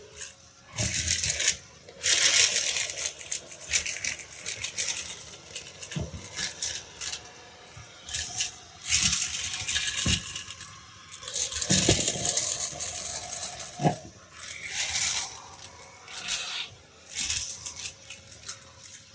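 Small beads rattling and clattering as a vacuum sucks them up, in irregular bursts of a second or two, with a few dull thumps between them.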